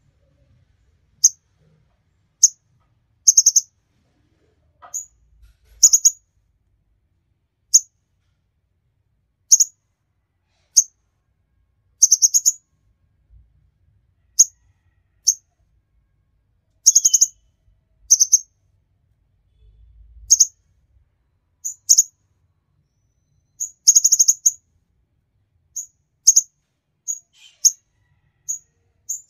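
A king konin songbird singing actively, in short, very high, sharp chirps and quick chirp clusters spaced irregularly, with pauses of a second or two between them.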